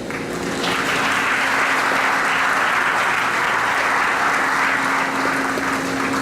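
Audience applauding, starting just under a second in, holding steady and dying away near the end.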